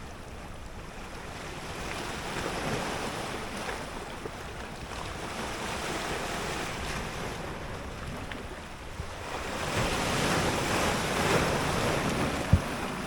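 Choppy sea surging against the shore while gusty wind buffets the microphone, the rush swelling louder twice. A brief thump comes near the end.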